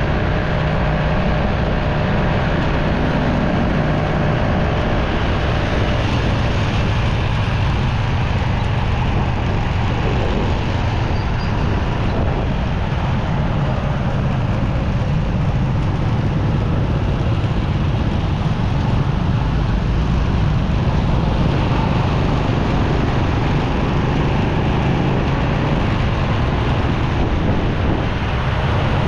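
Motorcycle riding through city traffic: its engine running steadily under a constant rush of road and wind noise, with other traffic around it.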